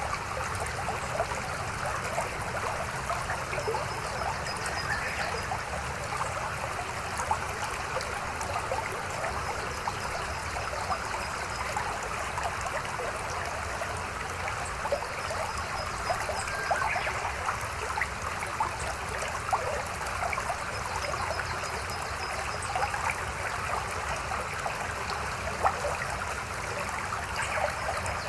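A mountain stream flowing over rocks, a steady rush dense with small splashing and trickling.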